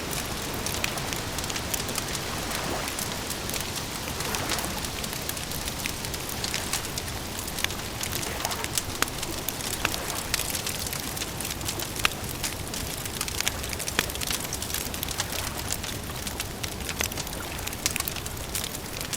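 Wood fire crackling: a steady hiss of burning wood with frequent irregular snaps and pops, a few of them sharper and louder than the rest.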